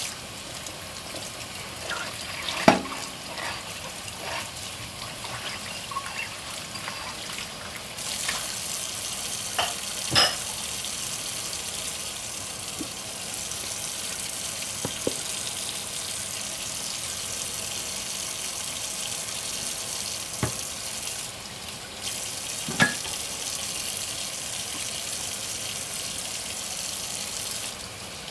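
Tap water running into a kitchen sink during hand dishwashing, with a few sharp clinks and knocks of dishes, three of them louder than the rest. The flow grows stronger partway through and drops off near the end.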